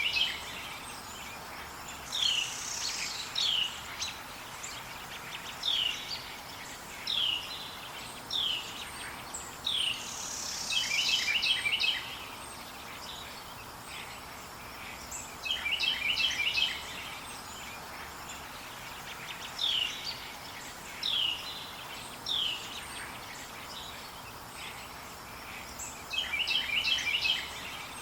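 Wild birds singing in a forest over a steady background hiss. One bird repeats a short chattering phrase three or four times, and between phrases come single falling whistled notes about a second or so apart.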